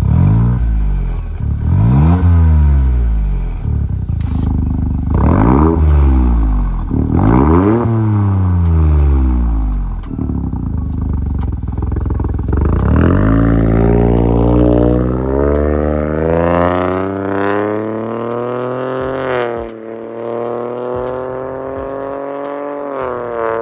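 An engine revving: about four quick rises and falls in pitch, then a long steady climb in pitch as it accelerates, one short dip, and a steady run near the end.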